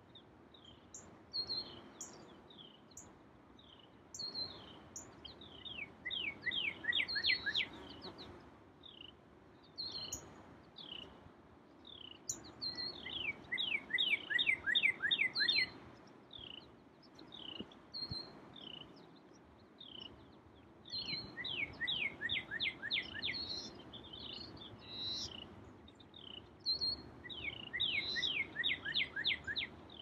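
Songbirds singing: a song of fast downward-slurred whistled notes comes four times, roughly every seven seconds, with scattered single chirps between, over a faint steady low background noise.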